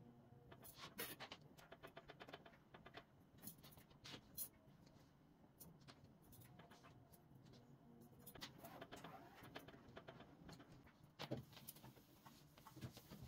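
Faint, scattered clicks and light knocks of small household items being handled and set down.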